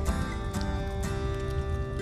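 Slow acoustic guitar music, plucked notes ringing on, over the crackle of a wood fire in a fireplace.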